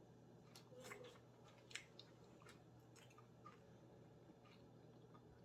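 Faint chewing of a chicken wing dipped in spicy sauce: a few soft, scattered smacks and clicks.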